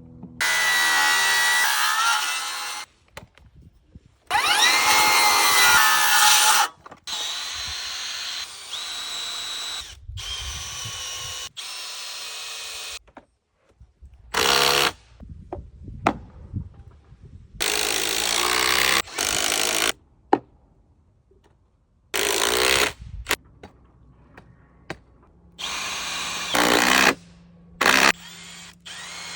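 Power drill working wood, run in a series of short bursts of a few seconds each, several starting with a rising whine as the motor spins up.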